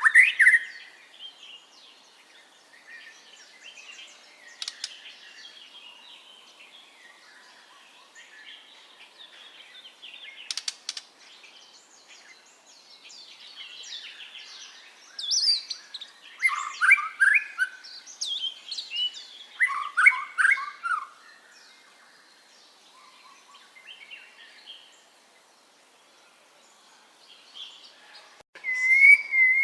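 White-rumped shama (murai batu) singing: a varied run of whistled and chattering phrases, quieter at first, with several loud bursts in the second half and a brief silent gap near the end before the song picks up again.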